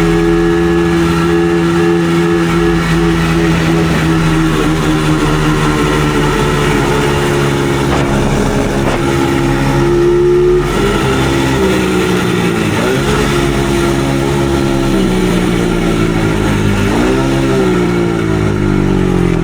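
Dirt bike engine running flat out at a steady high pitch, at the top of its speed with no power left. About halfway through the pitch falls and wavers, with a few brief dips as the throttle is eased.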